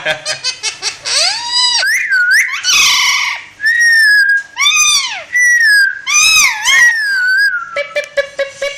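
Pet parrot giving a loud run of whistles and screechy calls, each a short glide up and down in pitch, with one longer, steadier whistle about three and a half seconds in.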